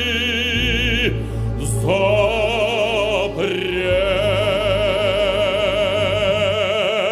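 Operatic singing over orchestral accompaniment: a solo voice with wide vibrato holds long notes, with a brief dip in the music about three seconds in.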